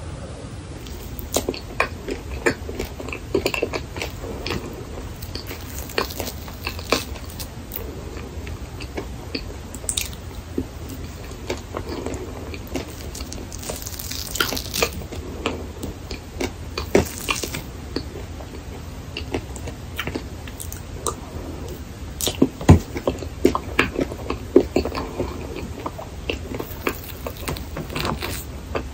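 Close-miked eating: soft, wet chewing of whipped cream with many small mouth clicks and smacks. Around the middle, a spoon briefly scrapes through the cream on a waffle.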